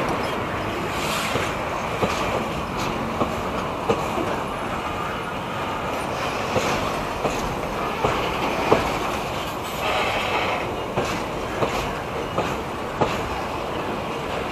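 A long goods train of enclosed double-deck car-carrier wagons rolling past. There is a steady rumble and rattle of wheels on rail, with irregular clicks as the wheels cross rail joints, and a brief shriller stretch about ten seconds in.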